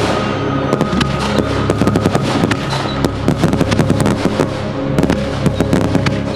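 Fireworks bursting and crackling: many sharp pops in quick succession, heard over background music with held notes.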